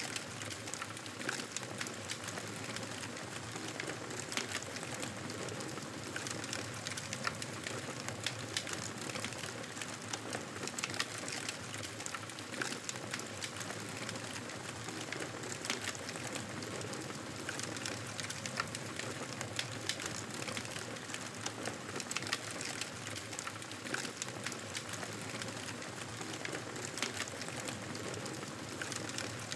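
Campfire burning, with a steady soft hiss and frequent sharp crackles and pops from the burning wood at irregular intervals.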